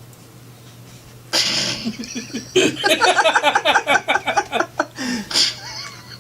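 A person laughing: a breathy outburst, then a rapid run of short laughs lasting a couple of seconds, ending in one more breathy burst.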